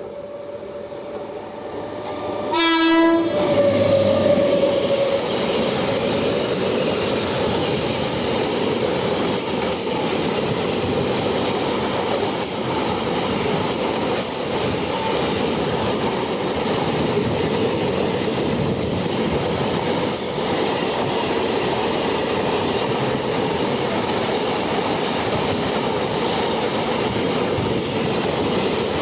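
Freight train passing: a short horn blast about three seconds in, then the steady rumble and clatter of wagons rolling by, with a thin whine from the wheels running underneath.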